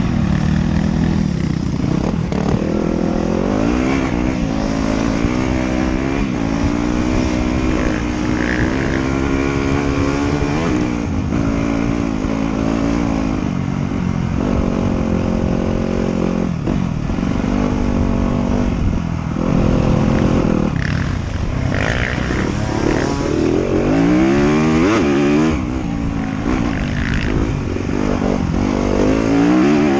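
Off-road motorcycle engine running under throttle on a trail ride, its pitch climbing and dropping again and again with throttle changes and shifts.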